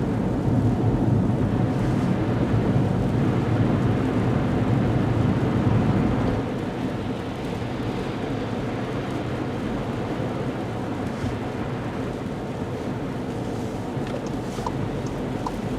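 Car cabin noise while driving a snowy highway: a steady low rumble of road and tyres, easing slightly a little over six seconds in, with a few faint regular ticks near the end.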